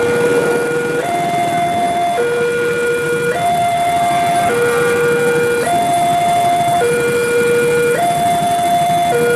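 Railway level-crossing warning alarm sounding a two-tone signal, switching between a low note and a higher note, each held just over a second, over a steady rumbling noise.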